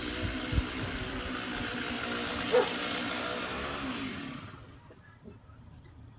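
An engine running steadily, with a short sharp high sound about two and a half seconds in, then dying away about four seconds in.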